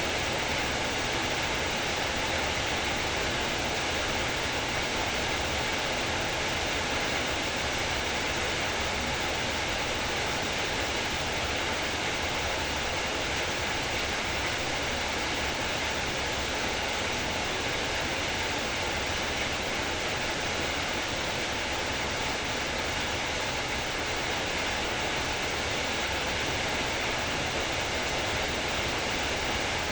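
Heavy rain pouring down as a steady, even hiss with no let-up.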